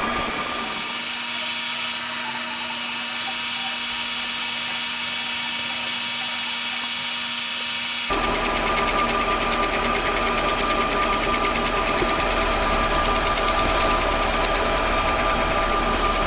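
A small electric machine motor running steadily, like a drill or lathe in a workshop; its sound changes abruptly about eight seconds in.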